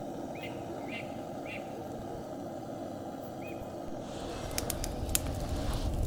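Wood campfire being lit: a steady low rush under four short high chirps, then sharp cracks and snaps from about four and a half seconds in as the kindling catches.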